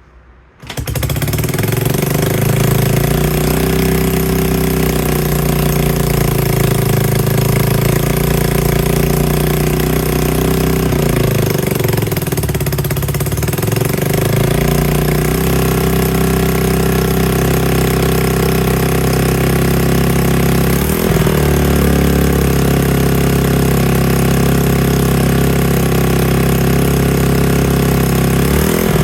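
Yamaha TW200's single-cylinder engine running loudly, starting abruptly about half a second in, its pitch dropping and rising again around the middle.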